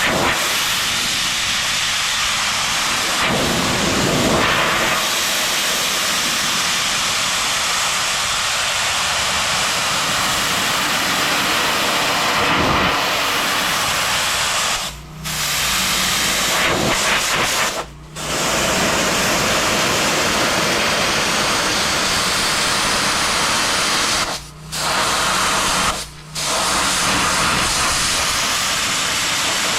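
High-pressure washer lance spraying water on stone as a steady loud hiss. The spray stops briefly four times, twice around the middle and twice near the end, leaving a low machine hum in the pauses.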